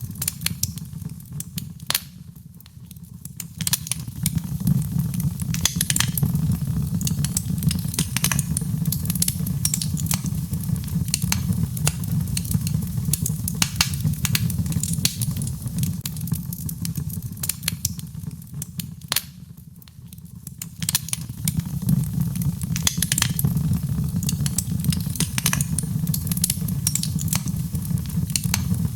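Birch logs burning in a fireplace: frequent sharp crackles and pops over a steady low rumble of flame. The rumble eases briefly twice.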